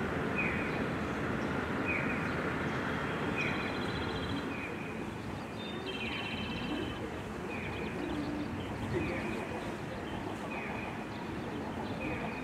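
A bird calling repeatedly with short, downward-sliding notes about once a second, with a brief higher trill now and then, over steady outdoor background noise.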